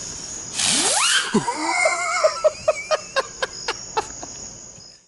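A consumer firework goes off: a short hiss with a rising whistle about half a second in, then a quick run of sharp pops and crackles, roughly four or five a second, dying away near the end. Crickets chirp steadily underneath.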